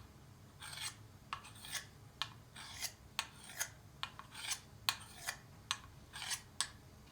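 Knife blade drawn in quick strokes across a sharpener: short scrapes, about two a second.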